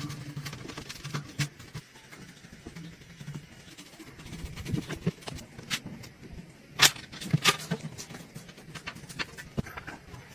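Small metal tools clicking and tapping against watch parts in scattered, irregular taps, the loudest about seven seconds in, over a faint low hum.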